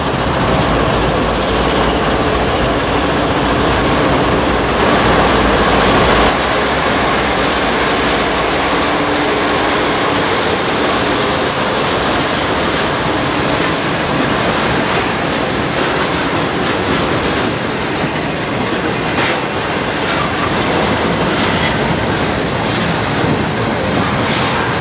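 CSX freight train passing close by: the diesel locomotives' engines rumble past in the first few seconds, then the freight cars roll by with steady wheel and rail clatter and frequent clicks over the rail joints.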